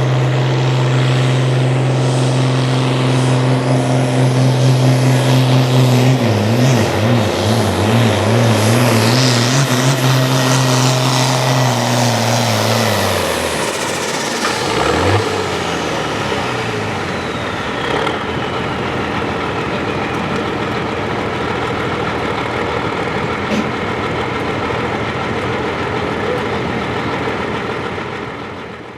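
Outlaw-class pulling tractor engine running flat out under load. Its pitch wavers for several seconds, then falls away as the throttle comes off, with a high turbo-like whistle winding down after it. A steady lower running sound carries on until the end.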